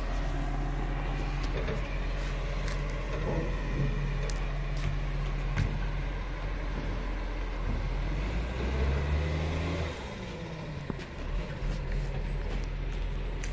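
Garbage truck engine running, with scattered clanks and knocks; the engine note rises a little past the middle and then drops.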